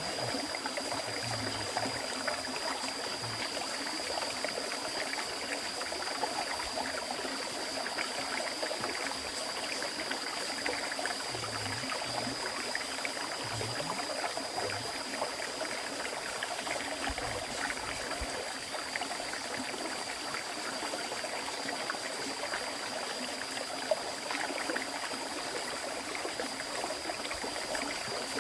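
River stream flowing steadily, a continuous rush and babble of water, with a thin steady high-pitched tone over it and a single brief click about 24 seconds in.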